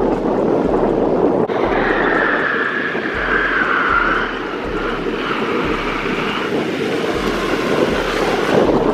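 Steady noise of street vehicles, with a wavering high whine for a couple of seconds after an abrupt change about a second and a half in.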